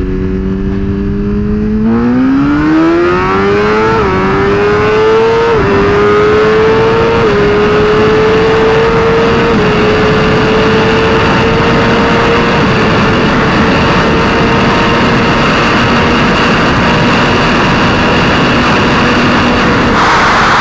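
Suzuki GSX-R1000R's inline-four engine accelerating through the gears. Its note climbs and drops back at four quick upshifts in the first ten seconds, then holds a steady cruise.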